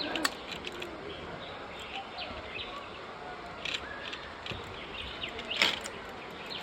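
Steady outdoor background noise with scattered short, faint chirps and calls and one sharper sound a little before the end.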